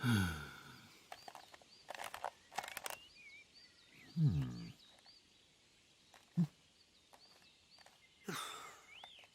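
Several short wordless vocal grunts and sighs, each falling in pitch, over faint chirping birdsong, with a few sharp clicks a couple of seconds in.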